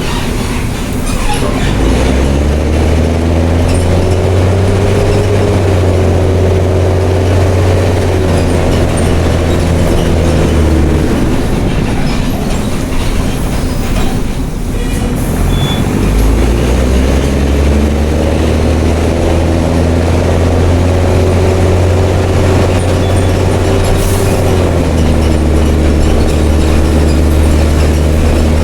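Mercedes-Benz OM366LA turbocharged straight-six diesel of a city bus, running through an open, straight-piped exhaust. The engine note climbs and holds under load, falls away for a few seconds around the middle, then climbs and pulls again, with a step down in pitch near the end as the automatic gearbox shifts.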